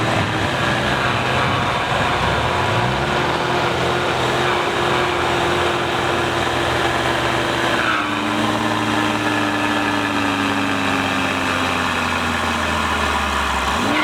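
Same Titan 190 tractor's diesel engine running steadily while pulling a weighted trailer in a tractor-pull contest. Its pitch drops slightly about eight seconds in and then slowly sags.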